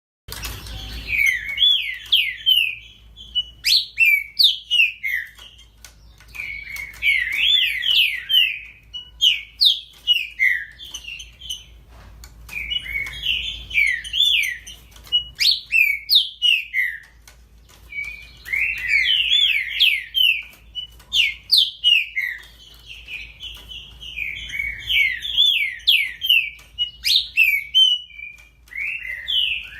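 Green-winged saltator (trinca-ferro) singing a loud run of quick, sweeping whistled notes, in phrases a few seconds long with short pauses between them: the song style keepers call a 'baderna'.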